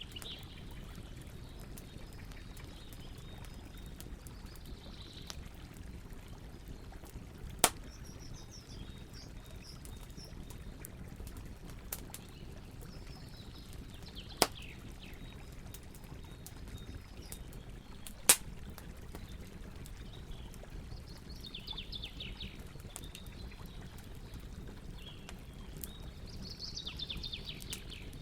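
Campfire burning, with a steady low rumble and small crackles throughout. Three sharp loud pops sound about a quarter, half and two-thirds of the way through. Short high falling chirps come now and then over the fire.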